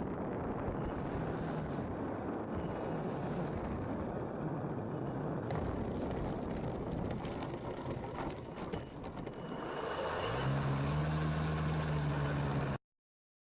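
Steady low rumbling noise. About ten seconds in, a steady engine hum sets in and then cuts off abruptly near the end.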